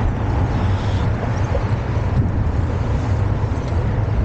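Steady low rumble of wind buffeting the microphone of a moving bicycle, mixed with road and traffic noise from the street.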